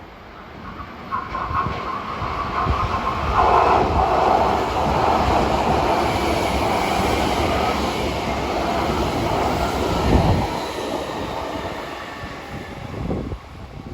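A Hankyu 3300 series electric train passing: it comes in, runs loudly past with wheel and rail noise, then fades away near the end.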